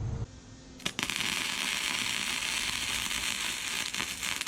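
Arc welder welding a steel exhaust pipe joint: a steady, dense crackle that strikes sharply about a second in and cuts off abruptly at the end.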